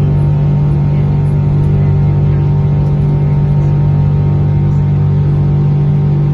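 A loud, steady low drone made of several held tones, with no change throughout.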